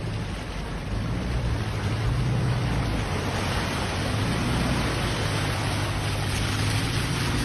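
Steady rushing noise of fast-moving floodwater, with a faint low hum underneath.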